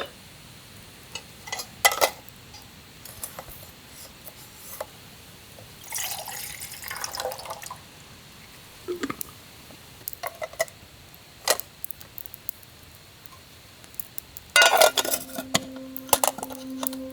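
Water being poured and dripping, with scattered small clinks and knocks of metal camp cookware; a louder clatter about fifteen seconds in, then background music with steady held notes begins near the end.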